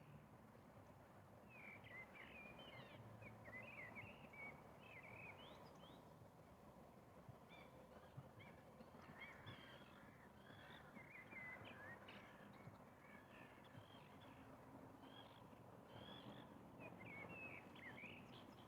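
Faint distant birdsong: quick, short chirping calls coming in three bursts, over a quiet steady background hiss.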